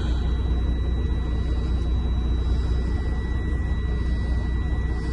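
Semi-truck's diesel engine idling with a steady low rumble and a faint, even high whine over it, run to warm the engine and thaw the ice frozen in its radiator.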